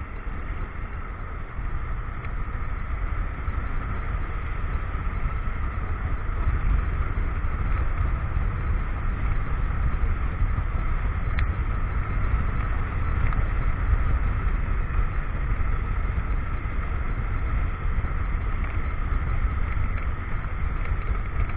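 Motorcycle riding along, its engine running under steady road and wind rumble on the action-camera microphone, with a single short click about halfway through.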